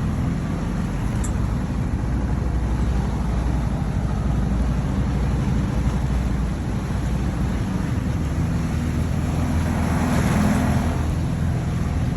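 Motorboat engine running steadily under way, with a rush of wind and water over it that swells briefly about ten seconds in.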